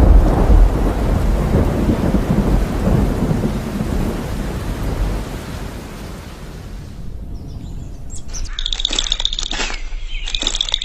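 A loud low rumble like thunder that dies away over about six seconds. About eight seconds in it gives way to high, repeated chirping calls.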